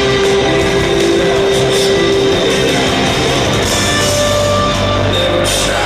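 Live rock band playing without vocals: guitars over drums, with cymbal crashes near the end.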